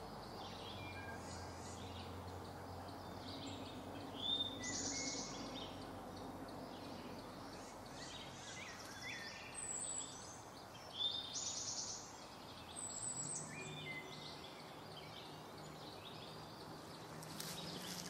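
Songbirds singing and calling: scattered short chirps and whistles, with a buzzy trilled phrase about four seconds in and again about eleven seconds in, over a faint steady low hum.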